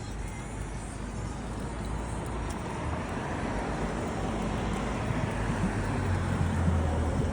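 Road traffic noise with a motor vehicle's engine hum growing steadily louder as it draws closer.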